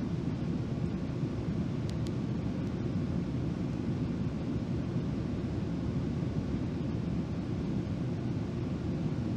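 Steady low rumble of a GO Transit commuter train running at speed, heard from inside the passenger coach. A faint, brief high squeak sounds about two seconds in.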